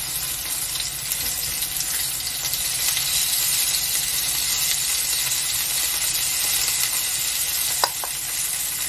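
Oil sizzling steadily in a nonstick frying pan as starch-coated enoki mushroom bundles fry, with one light click near the end.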